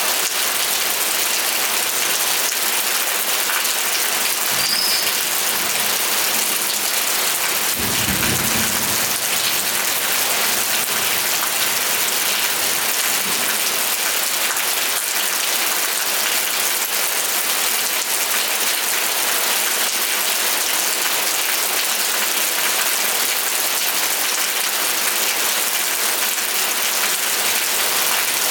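Steady heavy rain falling and hissing on surfaces, with a brief low rumble about a third of the way in.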